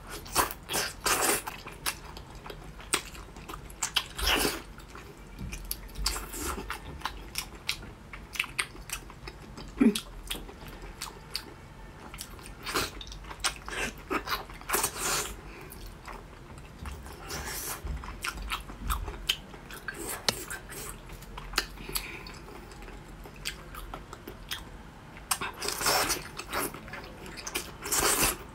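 Close-miked biting and wet chewing of soft braised pig large intestine, in irregular clusters of sharp mouth clicks.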